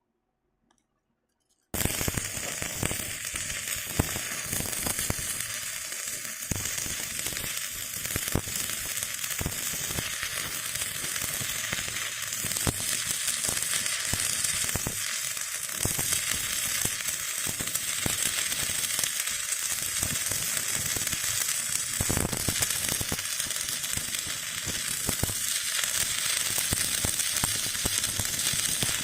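Electric stick-welding arc crackling and sizzling steadily, struck abruptly about two seconds in after near silence.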